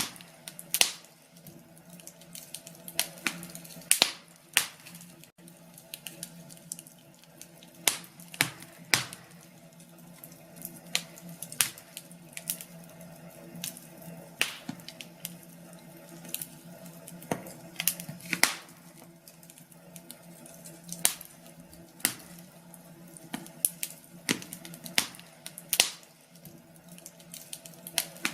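Wood fire in a fireplace crackling, with irregular sharp pops, a few loud ones every second or two and smaller crackles between.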